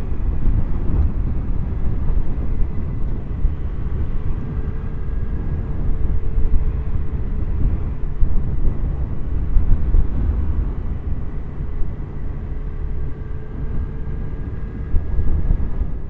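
Motorcycle riding at speed, heard from the rider's camera: heavy wind rush on the microphone over the steady hum of the engine and tyres.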